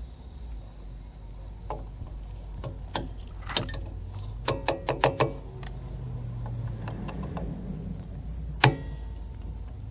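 Metal clicking and clanking of drum-brake shoes and spring hardware being worked into place by hand, in irregular clusters, with one loud ringing clank near the end.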